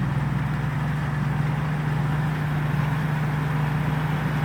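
Turbocharged Hino J2 diesel engine of a Thai Seng rice combine harvester running steadily while the machine harvests, a constant low drone with mechanical noise.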